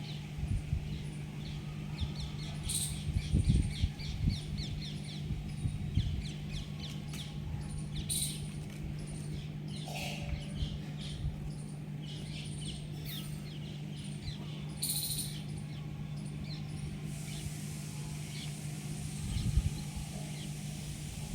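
Birds chirping and calling in short repeated notes, over a steady low hum, with a few low thumps in the first half.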